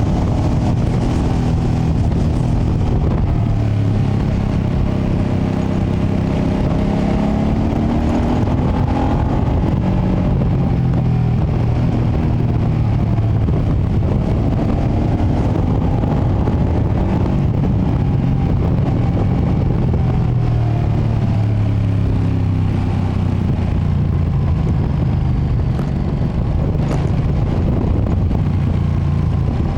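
2025 Ducati Panigale V2S V-twin on its stock exhaust, ridden on the road, its engine note rising and falling with the throttle, under heavy low rumble on the microphone.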